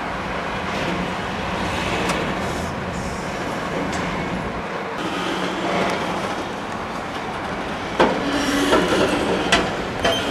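Heavy vehicles rumbling past close by, with several sharp metallic clanks and a brief squeal near the end.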